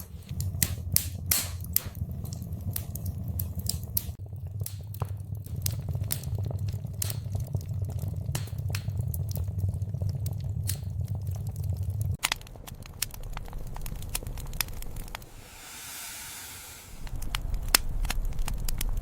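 Wood fire crackling, with frequent sharp pops over a low rumble. About two-thirds of the way in the rumble drops away, and a brief hiss follows.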